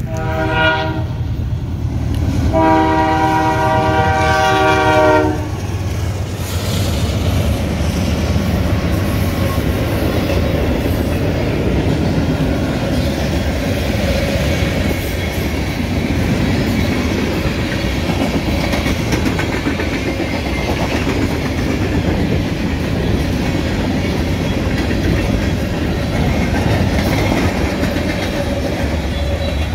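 Norfolk Southern freight locomotive's horn sounds at the grade crossing: a short blast, then a long one of about three seconds. The freight train then passes close by, with a steady rumble and the clatter of hopper and tank car wheels over the rails.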